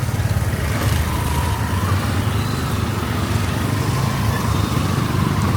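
Busy street traffic: the engines of passing vehicles running in a steady low rumble, with a faint wavering whine over it.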